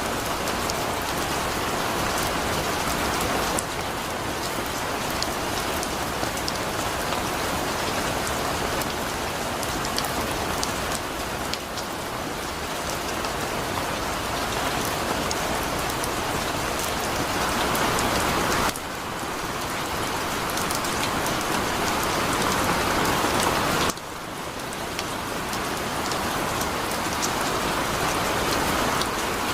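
Heavy rain falling steadily, a dense hiss of drops. It drops suddenly in level three times, then slowly builds again.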